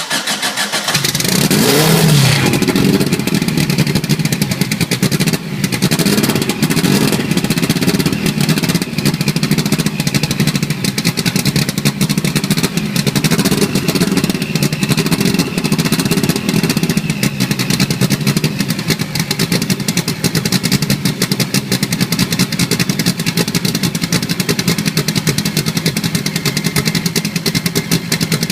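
Fuel-injected (EFI) engine being cranked and firing up: its pitch swings up and down over the first couple of seconds as it catches, then it runs on steadily with a fast firing pulse.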